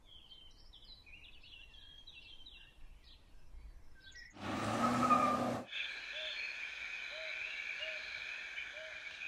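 Small birds chirping, with quick short calls for about four seconds. Then comes a loud rush of noise lasting about a second, followed by a steady high drone with small chirps repeating under it.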